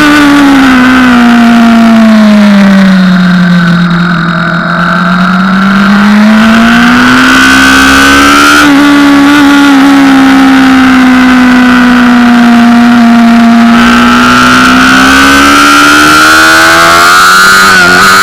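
Honda CBR600RR's inline-four engine heard onboard at high revs, very loud. The revs fall and the sound dips slightly about four seconds in as the throttle is eased off, then climb again, hold high through a long stretch, and rise once more near the end.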